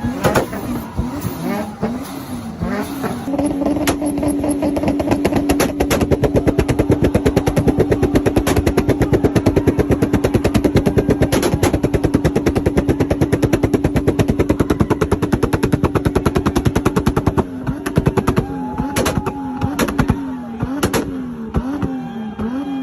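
Modified car engine revved up and down, then held at one steady high rev for about fourteen seconds with rapid, regular popping from the exhaust, then revved up and down again.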